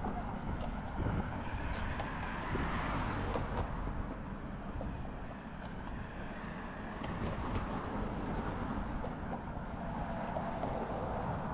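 Steady outdoor waterfront street ambience: a low motor rumble, with wind buffeting the microphone.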